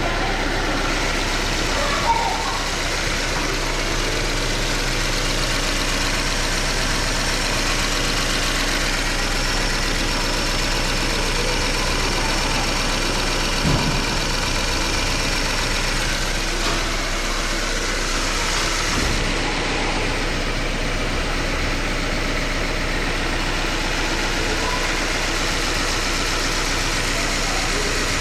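Subaru Impreza's FB16 1.6-litre flat-four boxer engine idling steadily, with a small knock about two seconds in and another about fourteen seconds in. The owner suspects something is wrong with how it runs.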